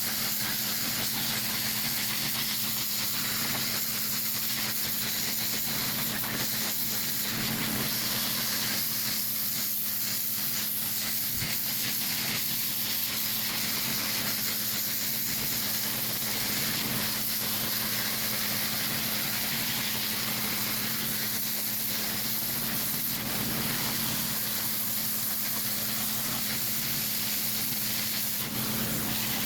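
Pressure washer spraying water in a steady hiss, with a constant engine hum underneath.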